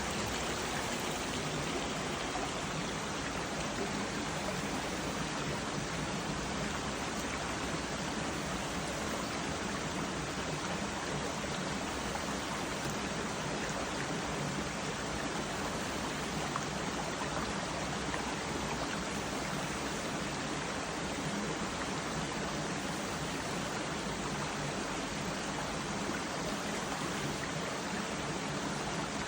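Mountain stream running steadily over rocks: an even, unbroken rush of water.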